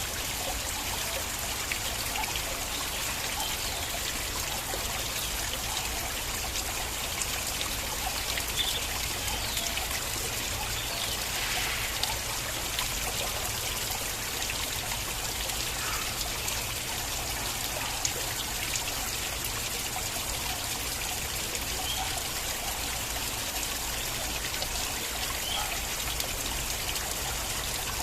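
Water flowing and trickling in a small stream, a steady rush with small splashes throughout.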